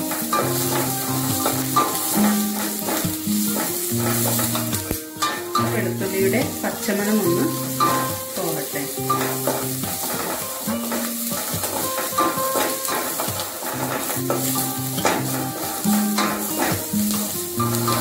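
Sliced onions and garlic sizzling in a stainless steel pot, with a wooden spatula stirring and scraping against the metal. Background music of held low notes plays underneath.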